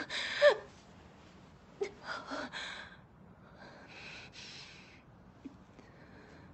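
A woman gasping and crying out in pain as a knife works at a wound in her shoulder: a sharp cry that falls in pitch at the start, a second cry about two seconds in, then a long, strained breath out.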